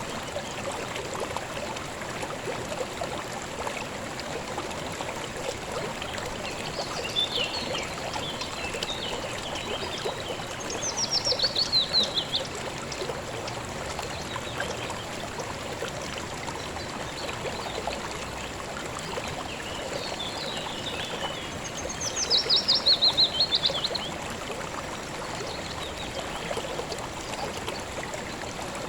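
Steady rushing of a river or stream. A bird sings over it: twice a loud, rapid trill that falls in pitch and lasts about two seconds, with a few softer chirps between.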